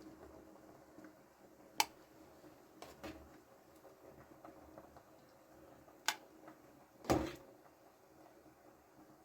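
A few sharp clicks and knocks of objects being handled while preparing food, spaced a second or more apart, the loudest a heavier knock about seven seconds in.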